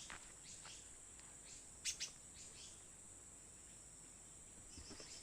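Bulbuls giving short, scattered chirps, two louder ones about two seconds in, over a faint steady insect hum.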